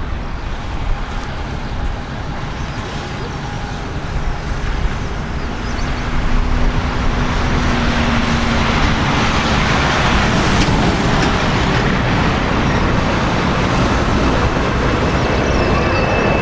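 Jet engines of a four-engine Boeing 747-400 running, the noise growing louder about six seconds in and then holding steady. Wind buffets the microphone throughout.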